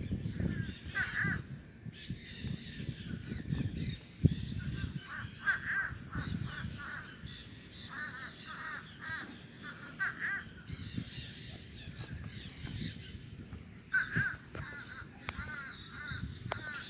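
Crows cawing, several short series of quick repeated calls.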